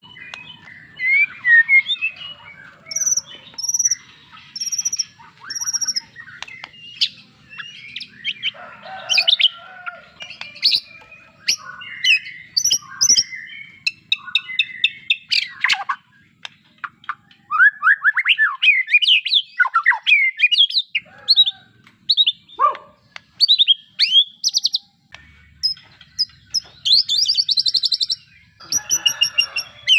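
White-rumped shama (murai batu) singing a long, varied song of clear whistled notes, sliding chirps and fast rattling trills, delivered in short phrases with brief pauses between them.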